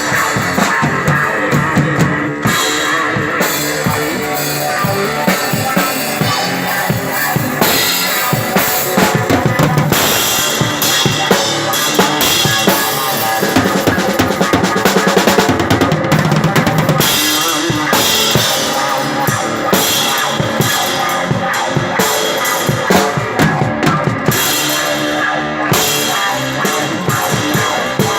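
Live progressive, psychedelic rock instrumental: a drum kit played hard, with bass drum and snare hits, over guitar.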